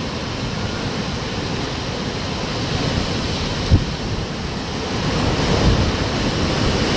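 Hurricane wind blowing as a steady rushing noise, with gusts buffeting the microphone; it grows a little louder over the last couple of seconds.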